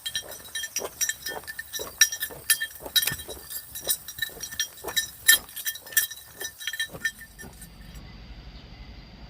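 A small metal bell clinking and jingling irregularly, several strikes a second, as the animal wearing it walks along; the jingling stops suddenly near the end, leaving a faint steady hum.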